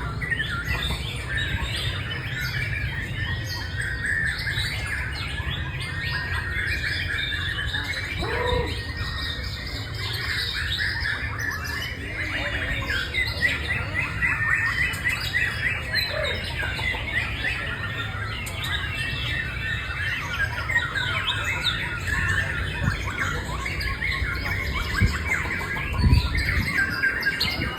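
White-rumped shama (murai batu) singing a long, continuous run of rapid, varied chirps and whistles over a steady low rumble, with a brief low thump near the end.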